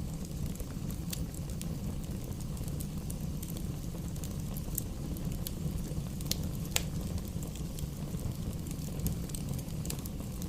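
Fire burning in a fireplace: a steady low rumble of flames with scattered crackles and pops, the sharpest pop about seven seconds in.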